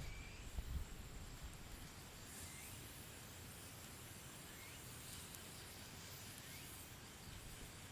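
Faint forest ambience: a short rising chirp repeats about once a second over a thin, steady high-pitched whine, with a low thump under a second in.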